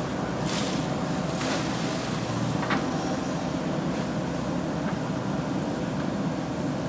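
JCB 3DX backhoe loader's diesel engine running steadily while working, with two short bursts of hiss about half a second and a second and a half in.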